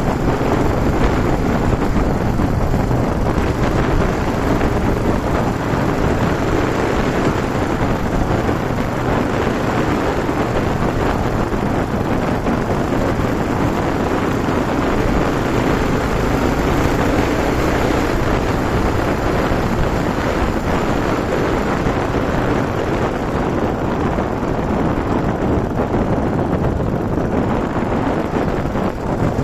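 Yamaha TW200's single-cylinder four-stroke engine running steadily under way, mixed with wind rushing over the microphone.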